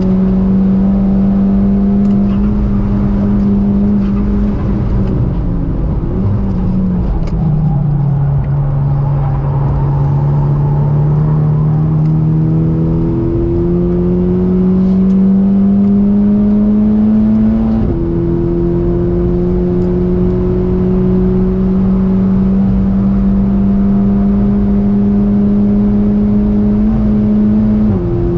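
Volkswagen Golf 6R's turbocharged four-cylinder engine pulling hard at high revs. Its pitch sags and recovers in the middle, climbs steadily, drops sharply once near the end of the climb at a gear change, then holds high.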